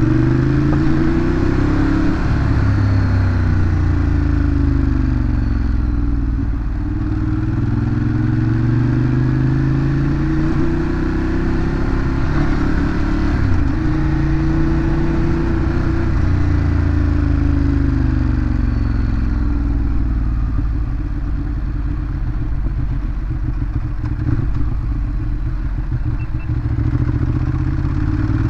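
Ducati Monster 821's L-twin engine through its stock exhaust while riding. The pitch climbs and drops several times as the bike accelerates, changes gear and rolls off the throttle.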